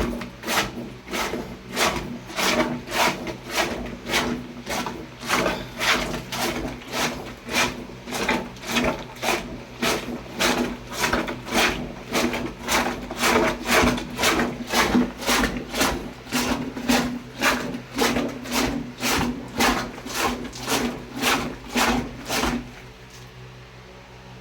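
Homemade bottle plunger washer: a cut-off plastic bottle with holes pumped up and down by hand through clothes in a 19-litre container of water, swishing rhythmically about twice a second as it washes the clothes. The strokes stop near the end.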